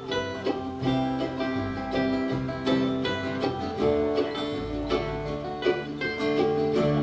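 Bluegrass band playing an instrumental passage, with banjo and guitar picking over a steady bass line.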